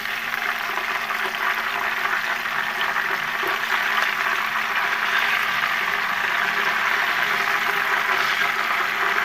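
Chicken skin frying in hot oil in a pan, a steady sizzle as the skin renders out its fat.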